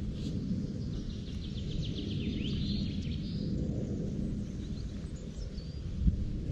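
Steady low outdoor rumble, with a bird trilling faintly from about one to three and a half seconds in and a single knock near the end.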